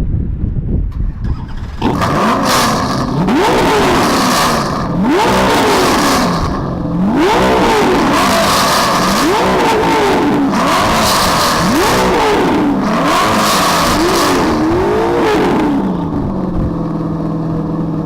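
Ultima GTR's Chevrolet LS V8 through an X-pipe exhaust, revved about seven times in a row, each rev rising and falling back roughly every two seconds. Near the end it settles to a steady idle.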